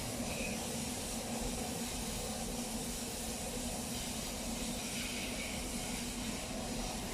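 Train in a station giving off a steady hiss over a low, even hum.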